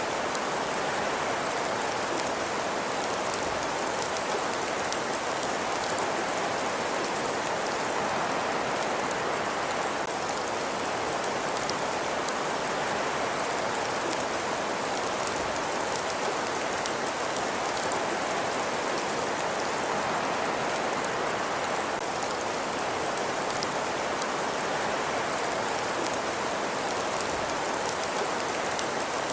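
Steady, even rain-like hiss with faint fine patter or crackle, unchanging throughout.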